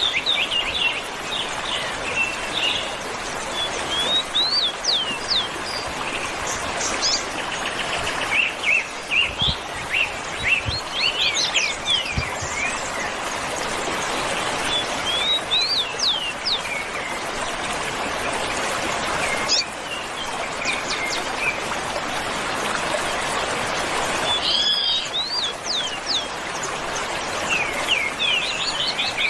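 Several birds chirping and calling in short quick notes and trills, over a steady background hiss. A few soft low knocks come about ten seconds in.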